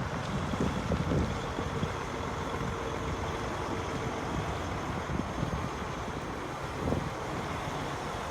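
2014 Kenworth T660 truck tractor's diesel engine running steadily at idle.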